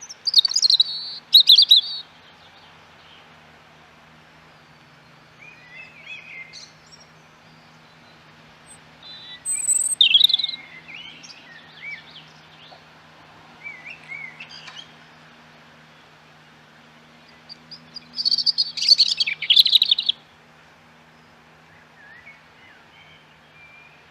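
Songbirds chirping and singing in bursts: three loud flurries of high chirps, right at the start, about ten seconds in and about eighteen seconds in, with fainter calls between. A faint steady hum and hiss lie underneath.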